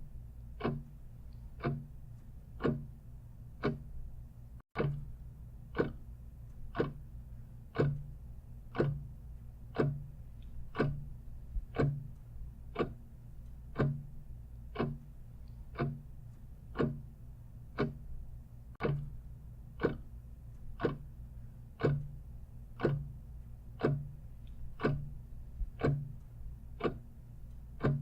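Clock ticking steadily at about one and a half ticks a second, over a low steady hum.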